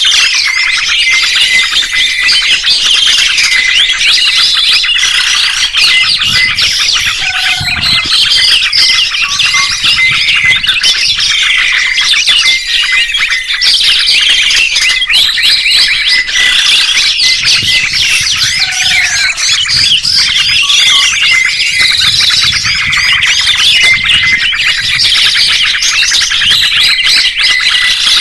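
Many small songbirds chirping and trilling over one another in a dense, unbroken chorus: a kicau-mania master recording of the kind played to train pet songbirds.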